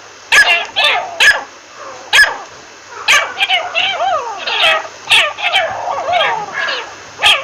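Teetar (francolin) calling: a run of harsh, sharp notes about every half second to a second, mixed with chattering, wavering calls.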